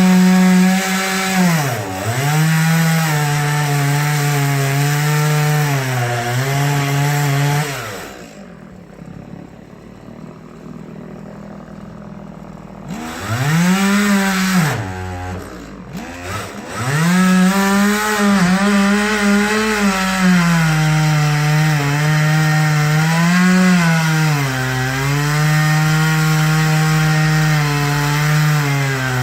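Two-stroke chainsaw running at high revs, its pitch sagging again and again as it bogs down in wood. About a third of the way in it drops back to idle for around five seconds, then is revved up and cuts again with several more dips.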